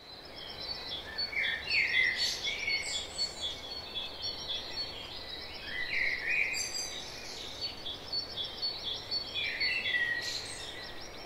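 Birds calling: a short warbling phrase heard three times, about four seconds apart, over continuous fast, high-pitched chirping and a steady background hiss.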